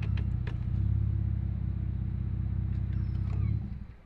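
2020 Dodge Charger SXT's 3.6-litre V6 idling through an aftermarket exhaust, a steady low rumble that stops about three and a half seconds in.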